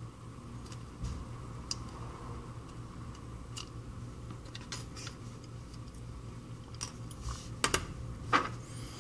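Scattered small clicks and taps of small repair tools on the screws and metal shield plate of an opened iPhone 5c, the two loudest close together near the end, over a steady low hum.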